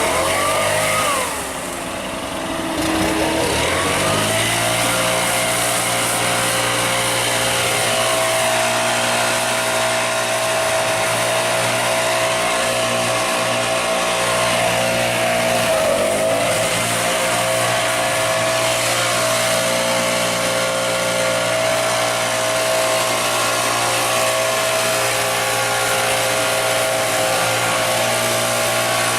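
Stihl backpack leaf blower's two-stroke engine running steadily at high throttle, dropping and coming back up in the first few seconds and dipping briefly again about halfway through.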